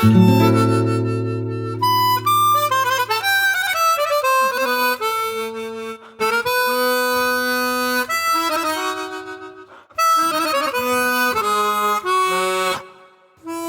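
Harmonica playing a melodic instrumental passage in flowing phrases, with brief pauses between phrases.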